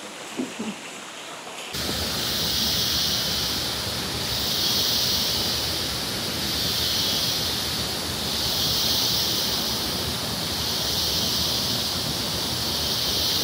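Steady rushing of water, starting abruptly about two seconds in, with a high hiss that swells and fades about every two seconds.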